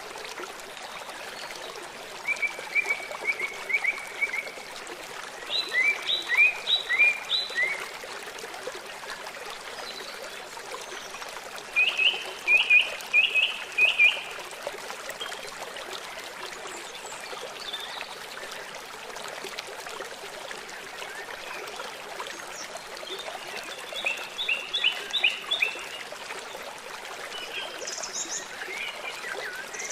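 Stream water running steadily. A songbird calls over it in four short phrases of quick repeated chirps, several notes a second.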